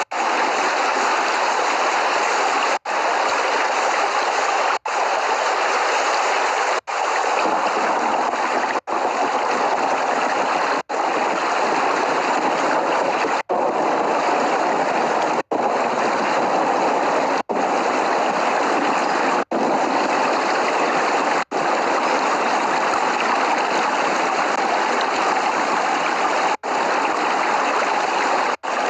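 Steady rain noise, an even loud hiss with no thunder, broken by very short dropouts to silence about every two seconds, as in a looped or badly edited recording.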